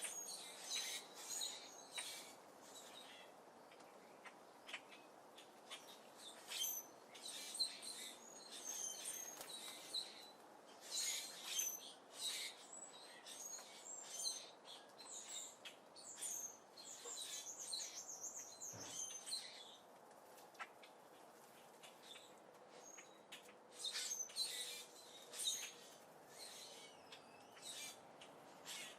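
Small songbirds chirping and twittering in many short, high calls, some overlapping, mixed with scattered faint sharp clicks.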